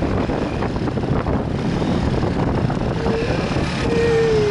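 A motorbike running on the road, heard from the bike itself, with wind buffeting the microphone. About three seconds in, a thin tone rises above the rumble and slides slowly down in pitch, twice.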